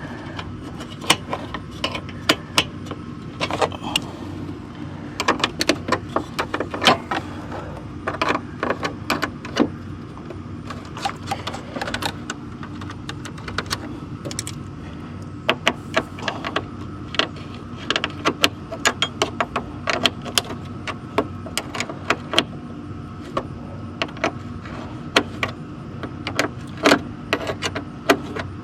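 Ratchet wrench clicking in uneven bursts, with metal clinks of tools and bolts, as the 10 mm bolts holding the radiator fan shroud are undone. A steady low hum sits underneath.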